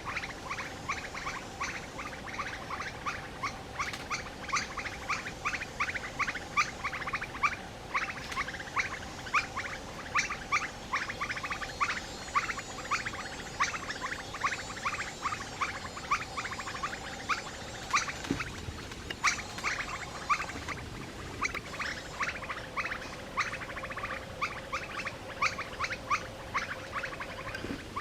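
Dense, continuous chirping from forest animals: short, rapid notes, many a second, with pauses only about two-thirds of the way through. A faint steady hum runs beneath the chirping.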